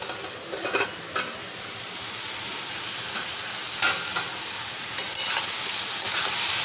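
Diced ash gourd frying in oil in a metal wok, sizzling steadily, while a spatula stirs it with several short scrapes and knocks against the pan.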